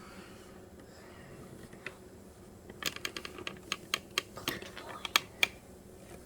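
A quick, irregular run of light, sharp clicks and taps, about a dozen of them, starting nearly three seconds in and stopping about two and a half seconds later.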